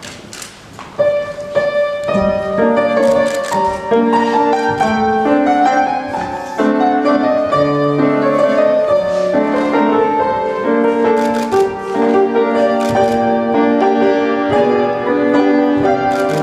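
A piano being played, with chords and a melody line; the playing starts about a second in and carries on steadily.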